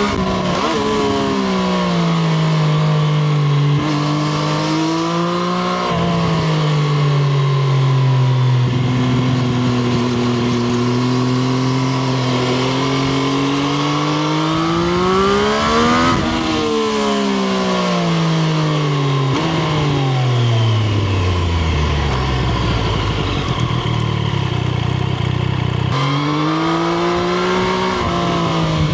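Triumph Street Triple RS's 765 cc inline-three engine heard from onboard: it pulls up through the gears with the pitch dropping at each upshift, holds steady, revs up, then winds down for a long deceleration to low revs before accelerating again near the end.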